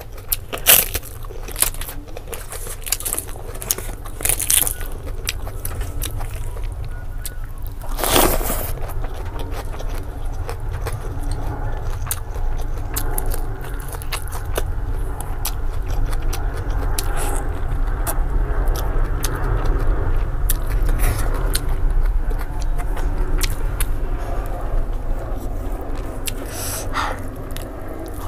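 Close-miked crunching and chewing of a crisp fried papad, a dense run of sharp clicks and crackles with one louder crunch about eight seconds in, then wetter chewing and finger-eating of rice and curry. A steady low rumble runs underneath.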